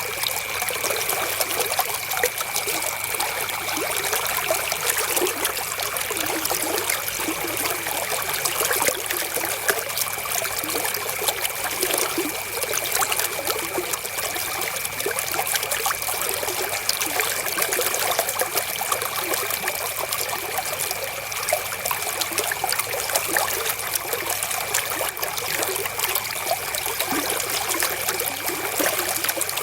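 Flowing river water trickling steadily.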